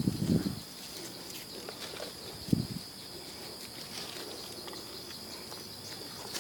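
Insects trilling steadily at a high pitch, with a few short rustling thumps near the start and again about two and a half seconds in.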